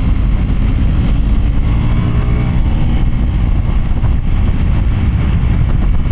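Motorcycle riding along a road at steady speed: the engine running under heavy, steady wind rush on the microphone.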